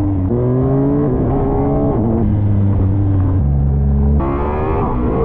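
Motorcycle engine accelerating hard: its pitch climbs, then drops with each upshift, about once a second. Near the end it cuts abruptly to another stretch of the engine pulling.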